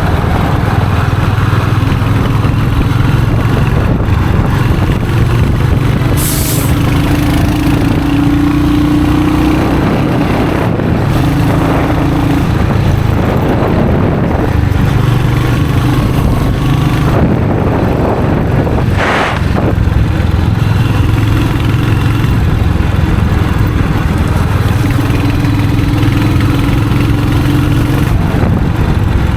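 Royal Enfield Hunter 350's single-cylinder engine and exhaust running under way, the engine note shifting as the throttle changes. A brief hiss comes about six seconds in and another short noise a little before two-thirds of the way through.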